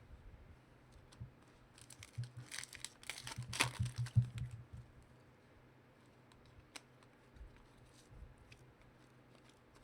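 Trading-card pack being torn open and its wrapper crinkled, a run of tearing and rustling for about two and a half seconds. Scattered light clicks follow as the cards are handled.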